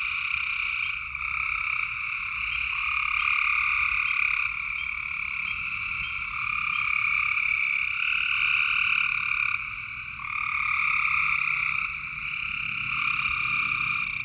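A chorus of frogs calling, many long overlapping calls that start and stop at different times, so the sound never breaks.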